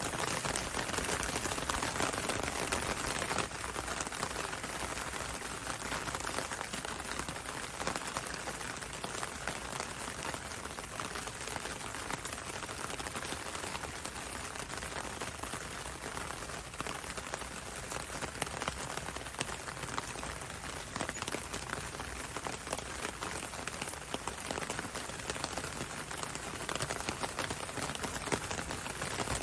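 Steady rain falling on a window and on a road, a dense even hiss dotted with countless small drop taps.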